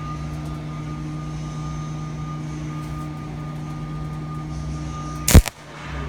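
A stick (arc) welder hums steadily at idle. Just after five seconds comes a loud, sharp crackle as the electrode is scratched on the steel to strike the arc.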